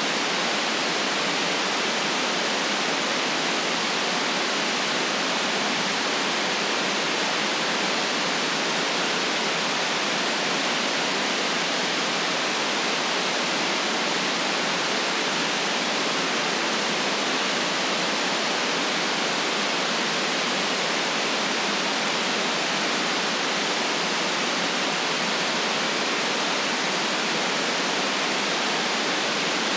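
Steady white noise: an even, unchanging hiss with no low rumble and no events.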